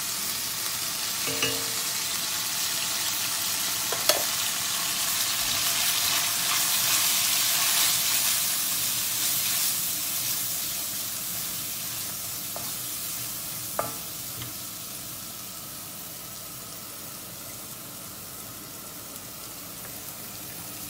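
Onion and ground-spice masala sizzling as it fries in oil in a steel wok, with a spatula stirring and scraping through it and a few sharp knocks of the spatula on the pan. The sizzle swells to its loudest in the middle and then eases off.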